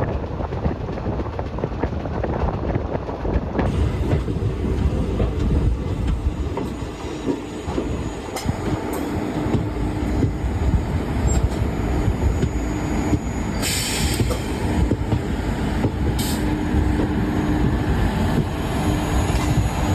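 Express passenger train coaches running on the track, heard on board: a steady rumble of wheels and carriages. From about halfway a steady low whine comes and goes, and two short hisses sound in the last third.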